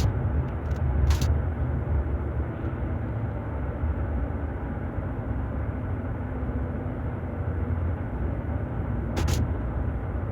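Scania K400 diesel engine of a double-decker coach running with a steady low rumble, with a few brief sharp noises just after the start and near the end.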